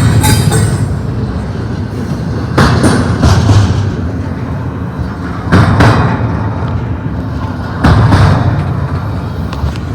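Cars of a double-stack container freight train rolling past, with a steady rumble and a loud clunk about every two and a half to three seconds as the wheels go by.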